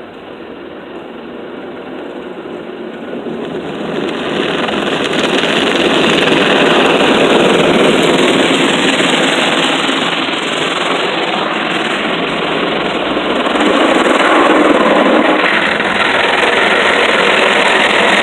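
PDQ ProTouch tandem automatic car wash spraying water over a car: a dense hiss that grows louder over the first six seconds, then stays loud with small swells.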